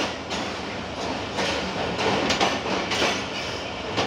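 Passenger train coaches rolling slowly past as the train arrives, a steady rumble with wheels clacking over rail joints at uneven intervals.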